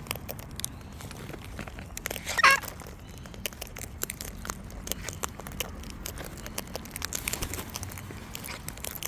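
Wild parrots at close range: a scatter of short sharp clicks and crackles, and one brief call about two and a half seconds in.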